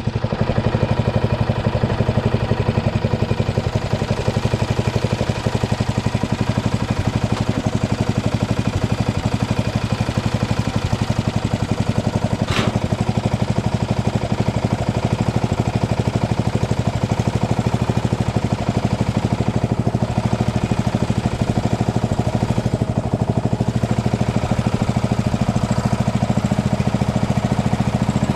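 Briggs & Stratton engine of a Craftsman LT2000 lawn tractor running steadily after a new starter got it going again, with one sharp click about halfway through.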